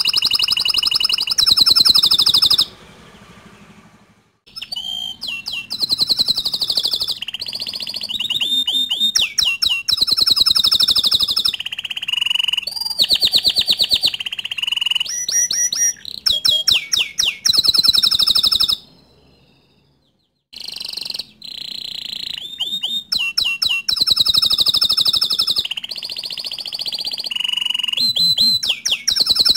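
Green canary singing a long, loud song of rapid trills and rolling repeated notes. The song breaks off briefly about three seconds in and again around twenty seconds in.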